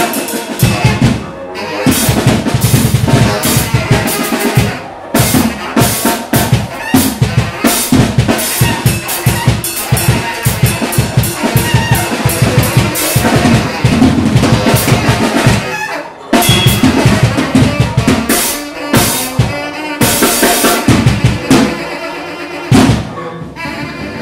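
Drum kit played hard in free-improvised noise music: fast, dense hits on snare, bass drum and rims, breaking off briefly a few times.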